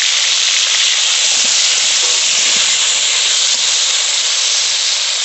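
Sliced potatoes and fish pieces sizzling steadily in hot oil in an iron kadai.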